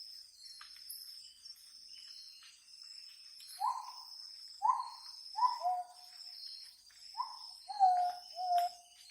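Forest insects keep up a steady, high, pulsing chorus, and over the second half an animal, likely a bird, gives about seven short falling calls, the loudest sounds here.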